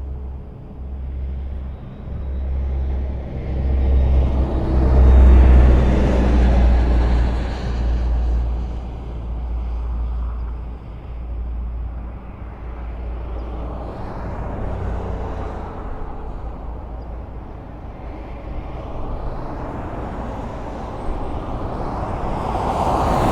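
Highway traffic: a steady low rumble of road noise with cars passing, the loudest pass swelling about five seconds in and another building near the end.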